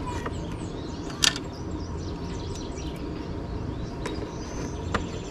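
Small birds chirping in the background, with one sharp click about a second in and two fainter clicks later on.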